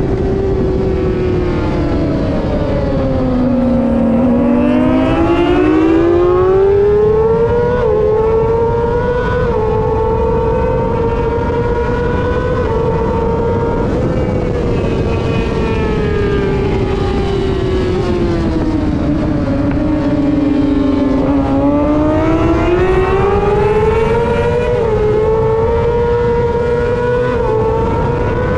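Race motorcycle engine at full racing speed over steady wind rush. The revs drop as the rider brakes and downshifts about three seconds in, then climb through quick upshifts and hold high. They fall again for a corner about two-thirds of the way through and climb through more upshifts near the end.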